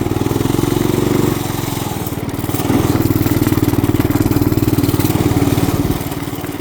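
Small off-road vehicle's engine running under throttle, easing off about a second in, picking up again around three seconds in, then dropping back near the end.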